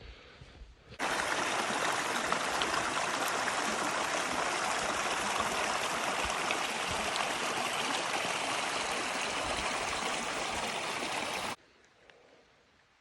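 Rushing water of a stream, a loud even rush that starts suddenly about a second in and cuts off sharply near the end.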